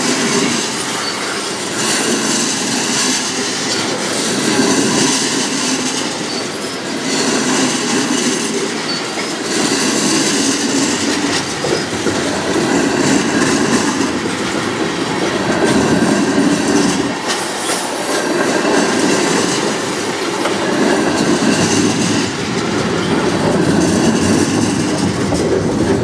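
Freight train's tank cars rolling past, a steady rumble and rush of wheels on the rails that swells and eases every two to three seconds as the cars go by.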